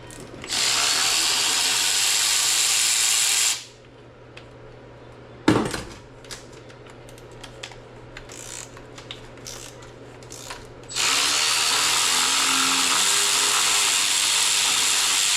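Handheld power tool spinning bolts off an LS engine block. It runs for about three seconds and stops. About five and a half seconds in there is one sharp metallic clank, followed by small scattered clinks. The tool starts again at about eleven seconds and keeps running.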